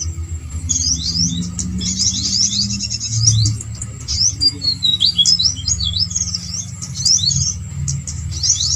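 Small songbirds chirping and twittering in quick high-pitched runs, with short pauses, over a steady low hum.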